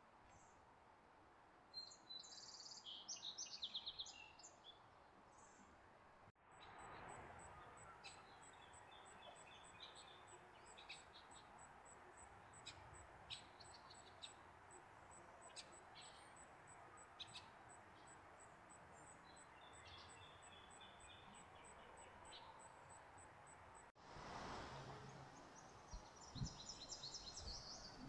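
Faint songbird song: small birds singing and chirping in quick, high phrases, with a steady, evenly spaced high ticking through the middle part. The background changes abruptly twice, at about six seconds and near the end.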